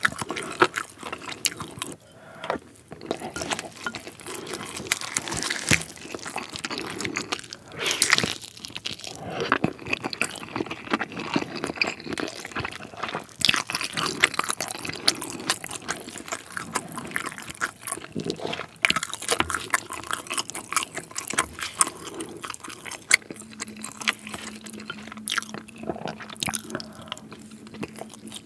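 Close-miked eating of a sauce-glazed grilled chicken drumstick: wet, sticky chewing and biting with lip smacks and small crunches, in an irregular run of clicks. A steady low hum comes in near the end.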